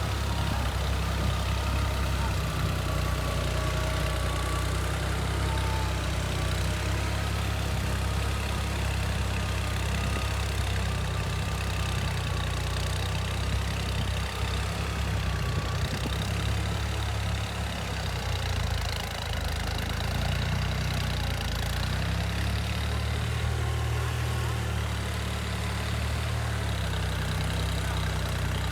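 An engine running steadily with a low rumble that shifts slightly about two-thirds of the way through.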